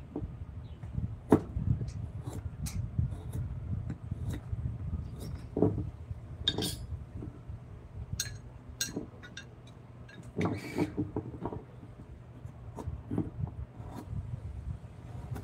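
Hand tools working on a wooden carving: irregular taps, clicks and knocks, with a brief scrape or rub around the middle, over a steady low hum.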